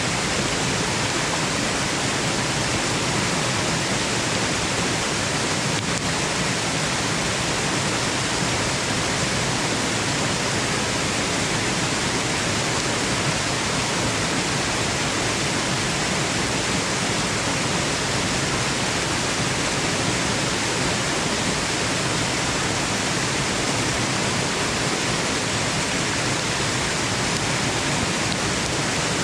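Waterfall rushing: a steady, unbroken hiss of falling water with no changes, used as white noise for sleep.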